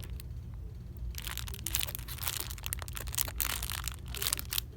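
Crinkling and crackling of packaging being handled, in close clusters starting about a second in, over a steady low hum.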